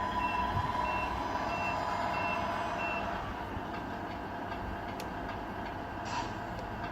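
Reversing beeper of a Tamiya RC truck's sound unit: five short high beeps, evenly spaced, over about three seconds, above a steady whine from the truck's running gear.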